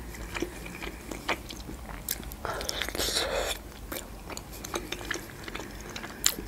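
Close-miked wet chewing of a khinkali dumpling: a string of small smacking clicks. About two and a half seconds in there is a louder, denser wet stretch lasting about a second, and there is a sharp click near the end.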